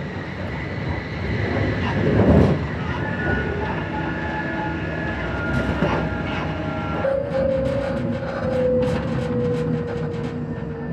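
Inside a moving electric passenger train: steady rumble of wheels on the rails. From about seven seconds in, a motor whine slowly falls in pitch as the train slows, with a scatter of sharp clicks near the end.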